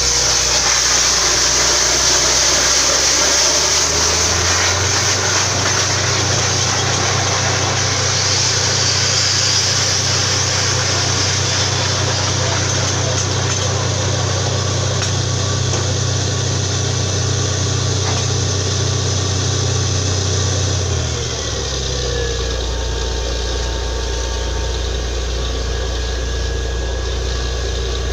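Engine of a borewell drilling rig running steadily. Its low hum steps up about four seconds in and drops to a lower, slightly quieter note about twenty-one seconds in.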